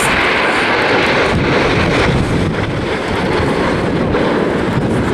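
BAE Hawk T1 jets flying a display pass, their engines giving a loud, steady rush of jet noise, with wind buffeting the microphone.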